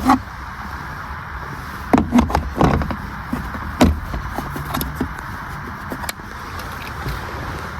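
Steady vehicle noise, a low rumble with a hiss above it, broken by several sharp knocks and clunks about two to four seconds in.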